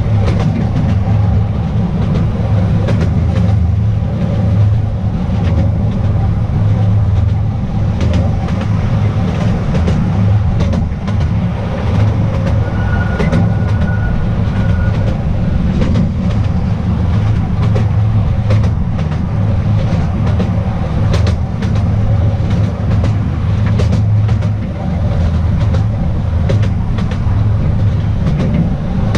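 Petit Train d'Artouste, a small narrow-gauge tourist train, running along its track, heard on board: a steady low rumble with scattered wheel clicks and rattles. A brief thin high whine comes in about thirteen seconds in.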